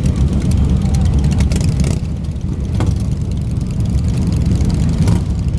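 Convoy of large-displacement motorcycles riding past, their engines running with a loud, steady low rumble.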